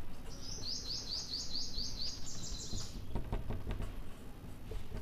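A small bird singing a quick series of about ten identical high chirps, roughly four a second, stepping up in pitch near the end. Afterwards come a few faint scratchy strokes of a marker on a whiteboard.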